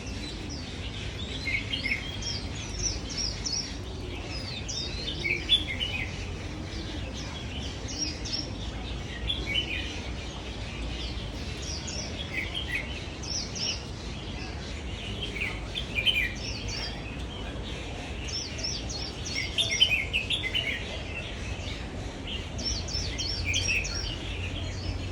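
A flock of aviary birds chirping: many short, high calls overlap and come in clusters throughout, over a steady low background rumble.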